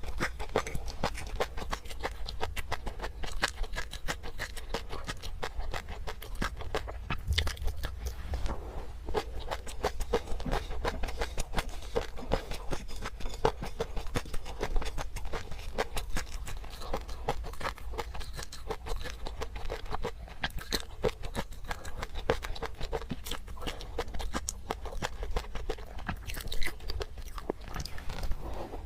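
Close-miked ASMR eating: a person chewing and crunching food, a steady stream of small crunches and mouth clicks without a break.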